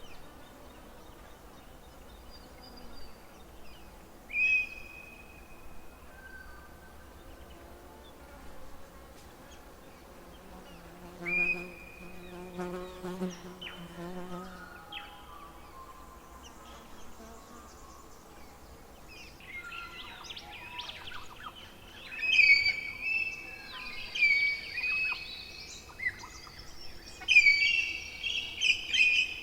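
Wild birds singing, with scattered single high notes at first and a dense run of loud, chattering calls in the last third. Near the middle a low, steady buzz lasts about four seconds.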